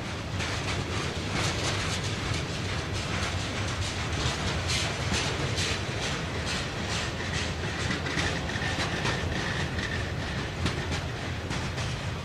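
Union Pacific freight train cars rolling past, the wheels clicking rapidly over the rail joints over a steady rumble, with a faint high squeal for a few seconds in the middle.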